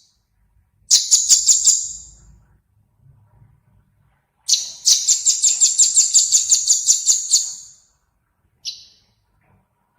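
Small songbird calling: a quick burst of high, evenly spaced chirps about a second in, then a longer rapid trill of high repeated notes, about six a second, lasting roughly three seconds, and one short note near the end.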